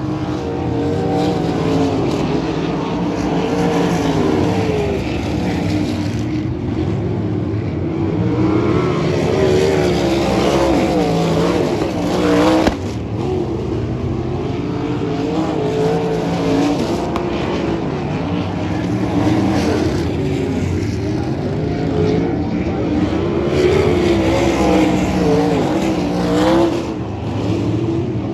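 Several sprint car V8 engines racing on a dirt oval, their pitch rising and falling through the turns as the pack circulates. The level dips sharply about halfway through as one car moves away.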